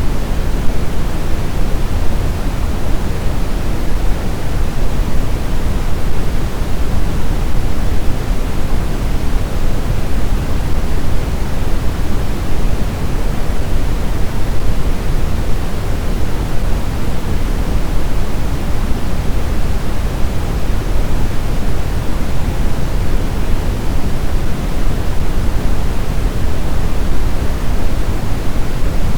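Steady blizzard wind noise: a loud, even rush that is heaviest in the low end, with no gusts, rises or howling tones.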